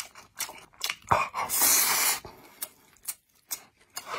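Close-up wet chewing and mouth smacking while eating fatty braised pork, a run of short sharp clicks, with a short breathy hiss about a second and a half in.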